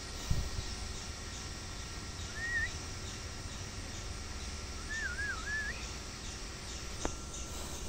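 A bird's clear whistled calls: a short rising whistle about two and a half seconds in, then a longer wavering, up-and-down whistle around five seconds in. Under them run faint high chirping and a low rumble of wind on the microphone, with a dull thump just after the start.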